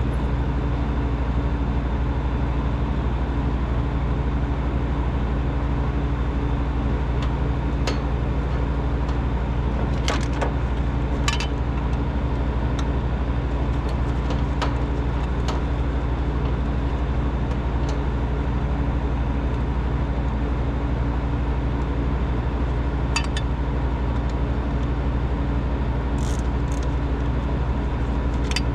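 Refrigeration vacuum pump running steadily with a constant motor hum, evacuating the refrigerant system after the compressor change. A few faint clicks over it.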